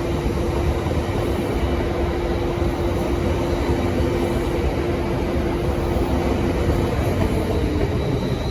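Lumo Class 803 electric multiple unit pulling out of the platform: a steady rumble with a held hum from its electric traction equipment that stops near the end.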